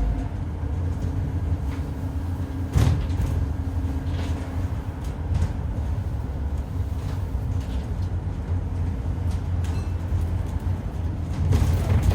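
Scania N230UD double-decker bus with its 9.3-litre Scania DC9 diesel running under way, a steady low drone with a faint steady hum over it, which the uploader hears as a strange howl from a dodgy bearing or worn tyres. Body and door panels give several short rattles and knocks, the loudest about three seconds in and a cluster near the end.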